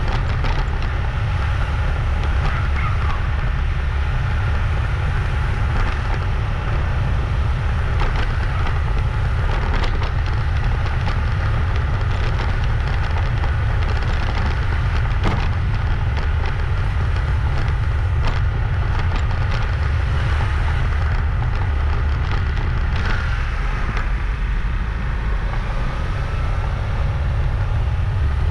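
Wind buffeting the microphone of a moving motorbike: a steady low rumble with scattered crackles and knocks from the ride.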